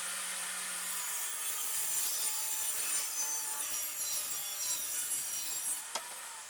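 Power saw cutting through wood: a steady high motor whine over dense cutting noise, which stops abruptly at the end.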